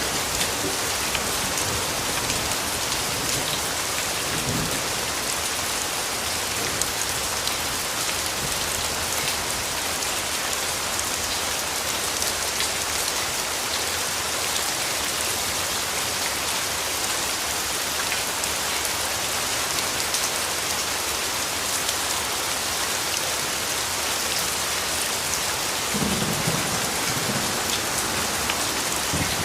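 Steady rainfall, a dense even patter of raindrops on leaves and ground, with a low rumble of distant thunder near the end.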